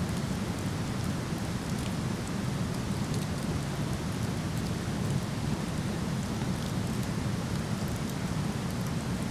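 Waterfall rushing steadily, with faint sparse crackles from a wood campfire.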